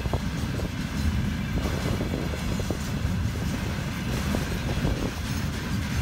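Container train's loaded flatcars rolling past: a steady low rumble of steel wheels on rails, with a run of scattered wheel clicks and knocks.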